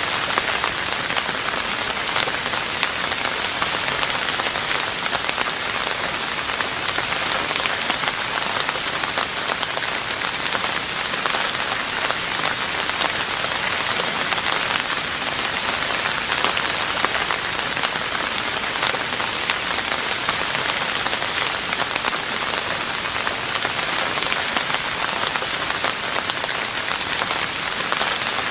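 Steady rain falling on a roof: a dense, even hiss of many drops that does not let up.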